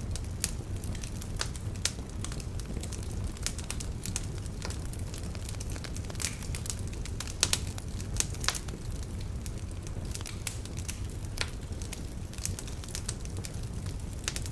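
Wood fire burning in a fireplace: irregular sharp crackles and pops from the burning logs over a steady low rumble of the flames, with a small cluster of louder pops about seven to eight and a half seconds in.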